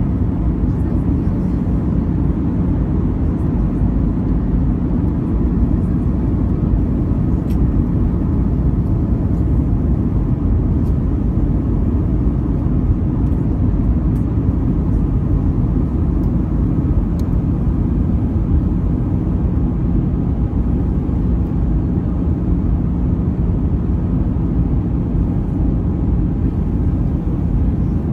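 Steady low rush of engine and airflow noise inside the cabin of an Airbus A320-214 in flight, its CFM56 engines running, with a faint steady hum under it.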